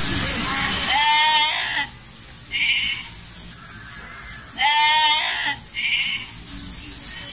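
Sheep and goats in a grazing flock bleating: two long, wavering bleats about a second and about four and a half seconds in, each followed shortly by a brief, higher call.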